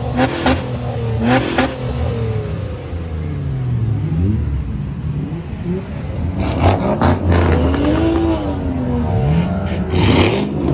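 Car engines revving, their pitch climbing and falling several times as the cars pass and rev.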